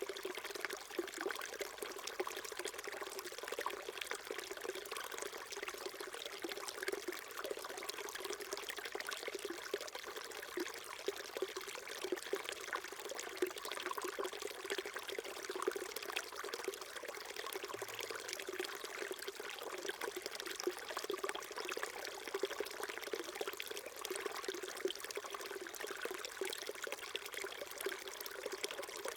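Small mountain stream flowing over stones, a steady babbling trickle with lots of small splashes.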